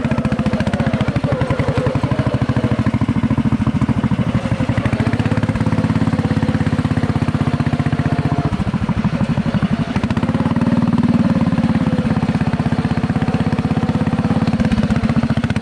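Small tractor engine running hard off-road, with fast even firing pulses; its note eases a little past the middle and then picks back up.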